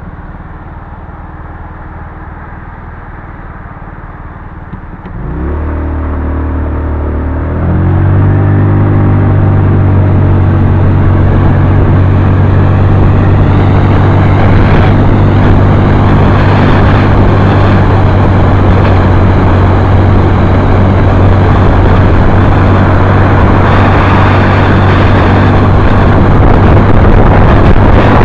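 Motorcycle engine running low and steady, then revving up about five seconds in and again a couple of seconds later as it pulls away. It settles into a loud, steady run with a rushing wind and road noise that grows toward the end.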